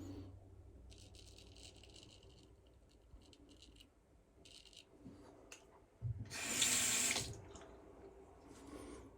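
A tap running into a sink for about a second, a little past halfway, the loudest sound. Before it, short scratchy strokes of a straight razor scraping through lather and stubble.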